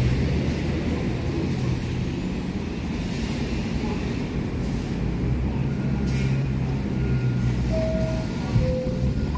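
New York City Subway (1) train running through the station, a steady low rumble with a low hum, with two brief whistling tones near the end.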